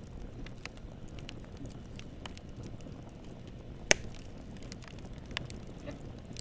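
Wood fire in a fireplace crackling over a steady low rumble of flames, with scattered small crackles and one loud sharp pop about four seconds in.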